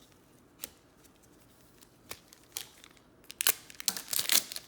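Trading cards being handled and shuffled: a few light clicks, then a quick run of crinkling, rustling handling noise about three seconds in.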